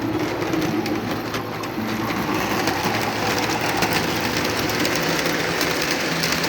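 Lionel O-gauge Fairbanks-Morse Train Master locomotive running on a model railroad: a steady whir of its electric motor and gearing, with wheels clicking over the track.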